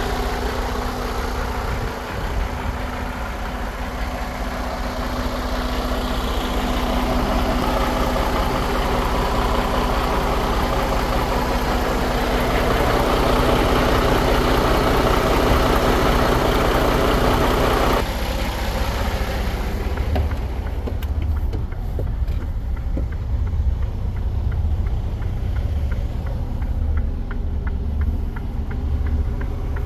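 Mercedes-Benz Arocs 3342 truck's diesel engine running steadily. About two-thirds of the way through, the sound changes abruptly to a deeper low rumble with light ticking.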